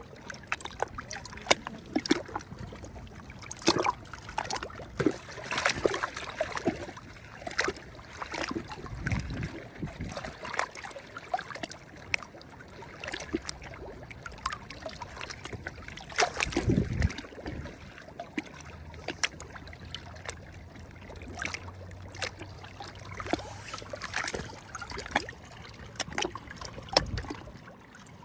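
Small sea waves lapping and splashing against the shore, an irregular run of sharp splashes and trickles over a steady wash of water.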